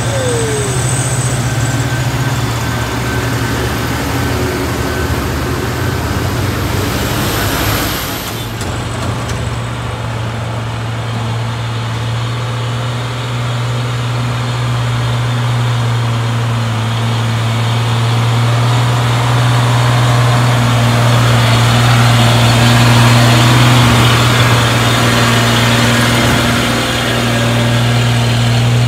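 Heavy diesel truck engine running steadily under load with a low drone. There is a short hiss about eight seconds in, and the noise swells a little in the second half.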